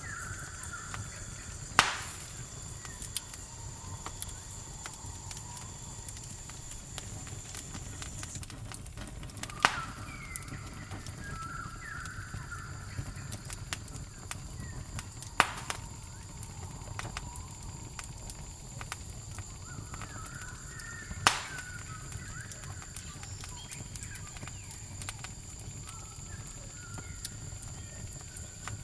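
Campfire crackling with small ticks and a sharp, loud pop about every six seconds, over a low rumble. A steady high cricket trill runs underneath, and a bird gives short falling calls three or four times.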